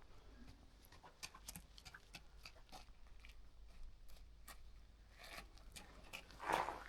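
Faint footsteps crunching on gravel: irregular small crunches and clicks, with a louder scuff near the end.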